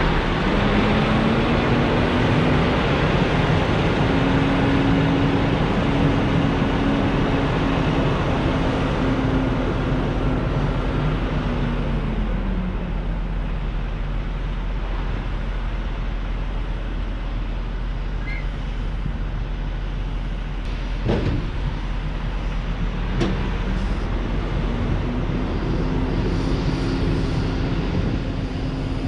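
Semi truck's diesel engine and road noise while driving. The engine note rises and holds, drops about twelve seconds in, and climbs again near the end, with two short clicks in between.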